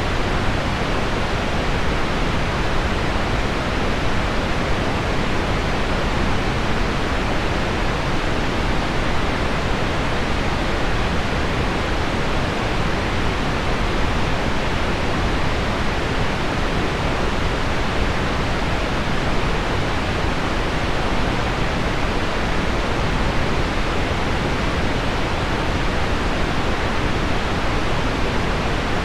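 Steady pink noise blended with a recording of heavy rain on window glass: an even, unchanging hiss weighted toward the low end.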